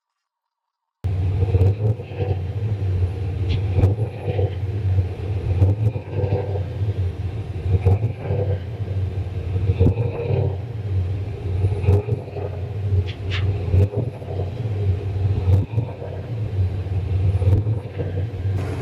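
Turbocharged 351 Windsor V8 of a Fox-body Mustang running with a low, uneven rumble through its open downpipe and short exhaust. It starts about a second in.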